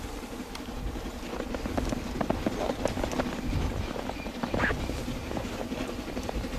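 A narrow-gauge coal train drawing near, its wheels clicking irregularly over the rail joints over a low rumble, with a brief higher squeal about two-thirds of the way through.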